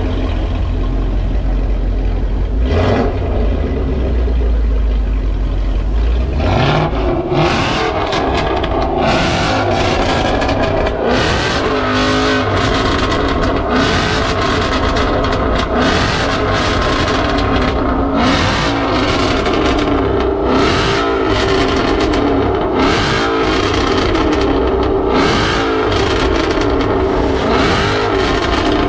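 Ford Mustang's engine running loud at idle with a deep exhaust note, then revved about six seconds in and blipped over and over for the rest, its pitch rising and falling.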